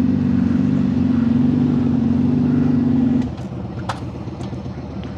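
Motorcycle engine idling steadily, then switched off about three seconds in as the bike stops to refuel; a few light clicks follow.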